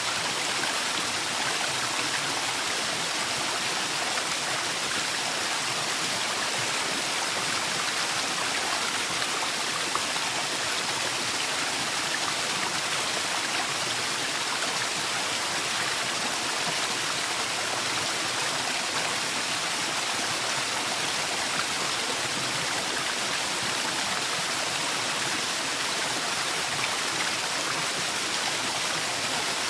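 Forest waterfall: water falling and rushing in a steady, even hiss with no breaks.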